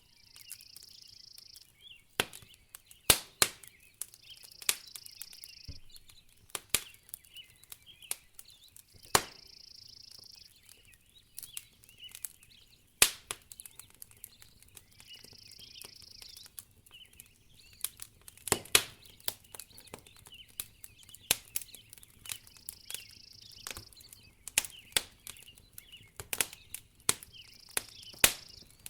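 Wood fire crackling in a fireplace: irregular sharp pops and snaps, a few much louder than the rest, over a low bed of hiss. A soft high hiss swells and fades every four to six seconds.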